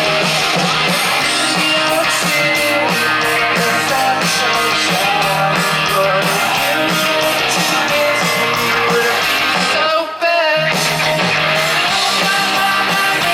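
Live rock band playing loud and steady: electric guitar over bass and drums. About ten seconds in, the low end drops out for a brief break, then the band comes straight back in.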